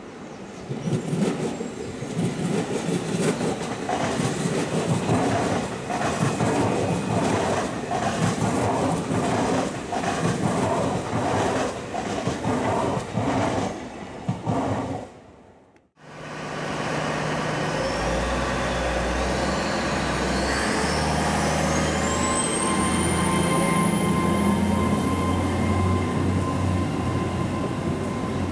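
A Great Western Railway Intercity Express Train (Class 800 family) passing close by: rolling noise with a steady rhythm of wheel beats over the rail joints. About halfway through, this cuts off suddenly and gives way to a steady hum with a slowly rising high whine.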